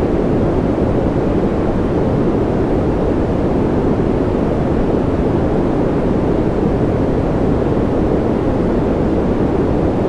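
Steady, unchanging white-noise sleep sound, with most of its energy low and in the middle, so it sounds like a deep, muffled hiss rather than a bright one.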